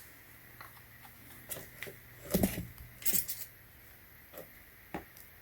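Short, scattered clicks, taps and light rattles of parts being handled, the loudest clatters about two and a half and three seconds in.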